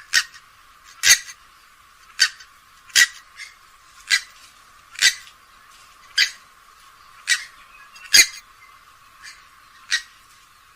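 Grey-headed swamphen calling: about ten short, sharp calls repeated roughly once a second.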